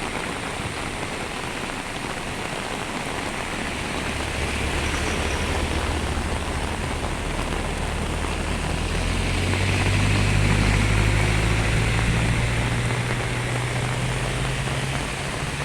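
Steady hiss of heavy rain and rushing floodwater, with a vehicle engine's low hum coming in about four seconds in, rising in pitch and loudest around ten seconds, then easing off.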